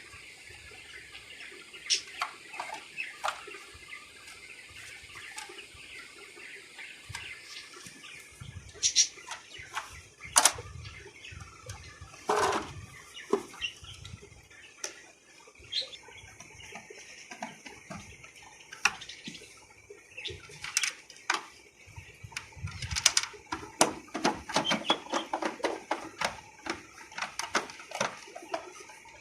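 Irregular clicks and knocks, scattered at first and coming thicker in the second half, over a faint steady hiss.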